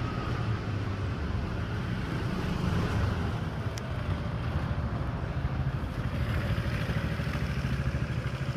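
Steady low rumble of city traffic. One very short, high-pitched tick comes about four seconds in.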